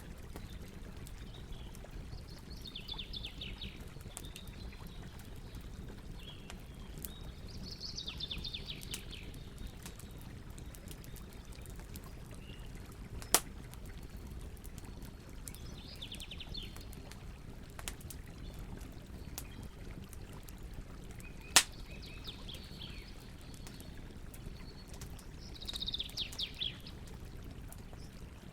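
Campfire crackling steadily with small clicks, and two loud pops from the burning wood, one about halfway and one about three quarters through. Birds call in short chirping bursts every few seconds over the fire.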